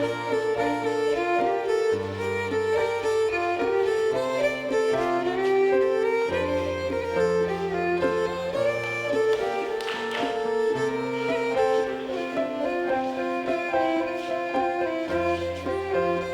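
Live contra dance band playing a dance tune, a fiddle carrying the melody over low bass notes that change every second or two.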